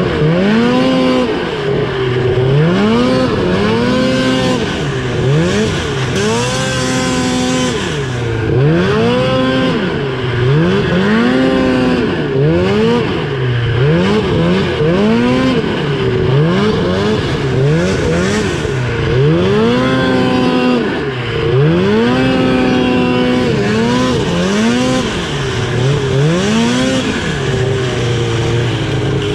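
2000 Ski-Doo Summit 700 snowmobile's two-stroke engine revving up and falling back over and over, roughly every two seconds, as the throttle is worked while riding.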